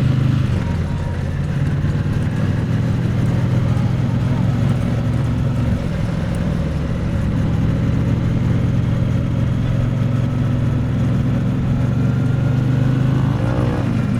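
Triumph Bonneville T100's parallel-twin engine and exhaust running steadily on the move, picked up close to the exhaust. Near the end the pitch climbs as the revs rise.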